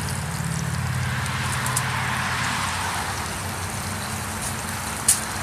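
Campfire crackling and hissing with a few sharp pops, the loudest near the end, over a steady low hum.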